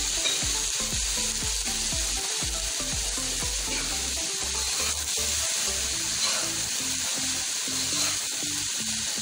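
Fried rice with vegetables and chicken sizzling steadily in a hot wok as it is stirred and tossed with a spatula.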